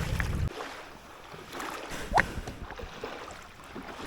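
Water splashing and lapping around a kayak as it is paddled, with wind rumble on the microphone that drops away about half a second in. A short rising squeak comes a couple of seconds in.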